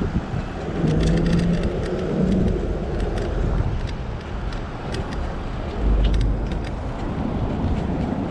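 Riding noise from an e-bike: wind rumble on the microphone and tyre noise, with street traffic around and scattered light clicks and rattles.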